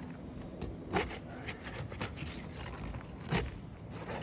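Metal pry bar scraping against asphalt shingles and nail heads as roofing nails are worked loose, with two sharper knocks about a second in and again about three seconds in.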